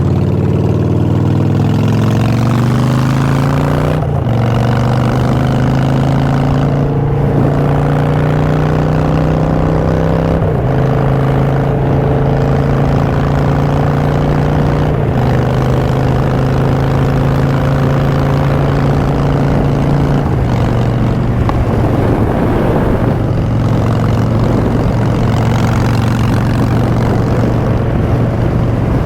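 Harley-Davidson Street Bob's Twin Cam V-twin running through Vance & Hines Short Shots exhaust, pulling up through the gears: the pitch climbs slowly and drops at each of four upshifts, then holds steady at cruise for the last several seconds.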